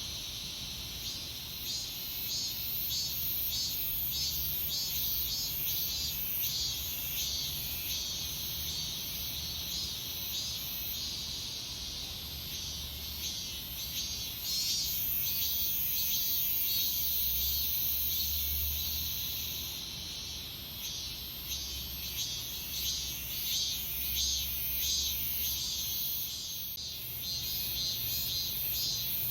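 Cicadas singing in late summer: a chorus of rapid, pulsing calls, with one high, continuous buzz rising above the rest for several seconds about halfway through.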